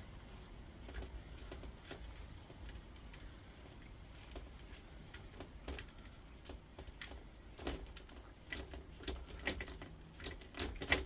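Irregular light clicks and ticks of hand work on induction-hob copper coil wire, with a low steady hum underneath.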